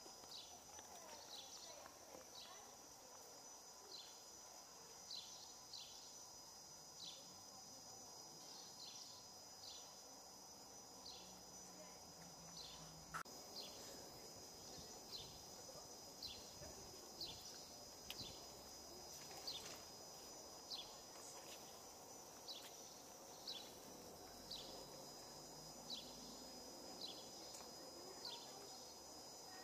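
Faint outdoor ambience with a short high chirp repeated about once a second, like a small bird calling over and over.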